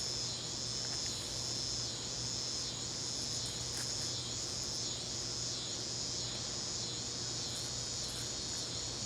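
Evening chorus of crickets, a steady high-pitched trilling with a regular pulse.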